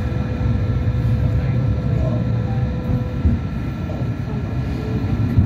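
Phase I light rail car running along the line, heard from inside the car: a steady low rumble of wheels on rail with a constant electric motor hum.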